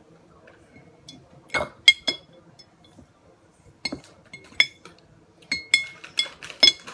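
Eating utensil clinking against a dish, about ten sharp, irregular strikes that each ring briefly, starting about a second and a half in.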